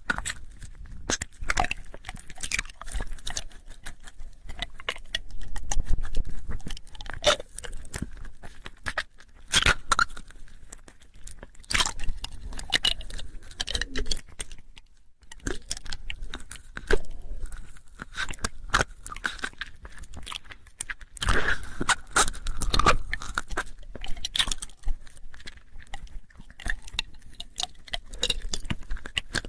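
ASMR mouth sounds close to a binaural microphone: irregular wet clicks, smacks and crackles from lips and tongue, some closely spaced and some single.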